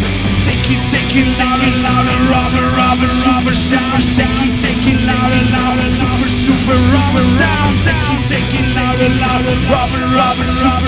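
Live band playing a mix of rock and electronic music: a sustained bass line, a lead melody with bending notes, and repeated cymbal hits.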